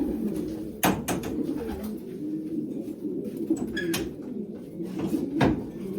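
Racing pigeons cooing continuously in a loft. A few sharp knocks or clicks break in, one about a second in, one near four seconds and the loudest shortly before the end.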